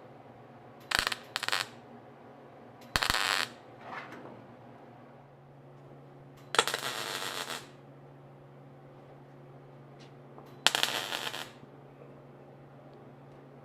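Welder tack-welding overlapping sheet-metal roof panels: five short bursts of welding, two brief ones about a second in, one near three seconds, a longer one of about a second in the middle, and one near eleven seconds. A low steady hum runs underneath.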